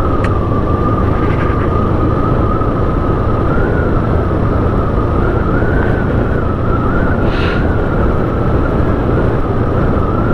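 Vehicle on the move, with steady loud road and wind noise and a steady high whine that wavers slightly in pitch.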